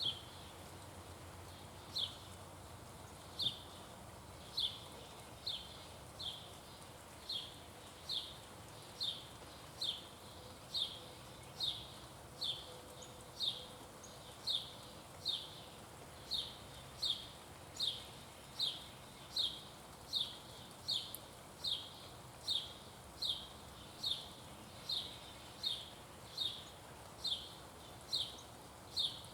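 A sharp, high, downslurred chip call repeated steadily over and over. The calls come at first every second or so and quicken to a little more than one a second.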